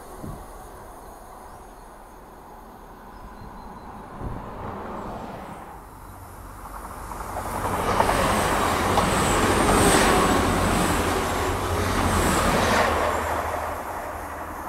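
Class 185 diesel multiple unit approaching and passing close by: the engine and wheel noise builds from about seven seconds in, is loudest as the train goes past, then fades as it draws away. A faint high wheel squeal sounds as it passes.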